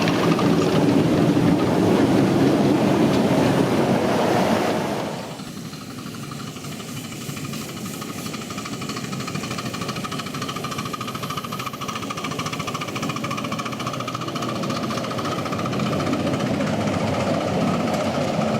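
Miniature railway train running on the track, loud for the first five seconds and then dropping off suddenly, with a quieter steady running sound that swells slightly again near the end.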